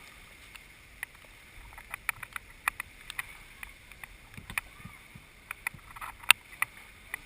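Hammer driving a nail into wood, a series of irregular sharp knocks with short pauses between them and one loud strike a little after six seconds.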